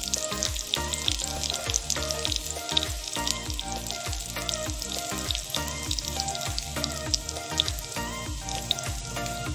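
Dal sizzling and crackling in a tiny brass pot over a small twig fire, with sharp crackles throughout. Background music with a steady beat plays over it.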